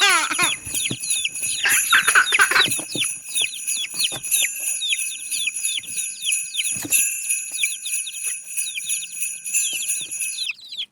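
Jingling bells ring steadily over a constant stream of high, short, falling peeps from chicks, several a second. A louder call stands out about two seconds in. Bells and peeping cut off abruptly just before the end.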